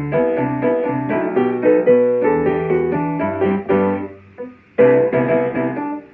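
Piano playing an upbeat tune in quick chords and melody notes. It thins out to a brief near pause just after four seconds in, then comes back in with a loud chord.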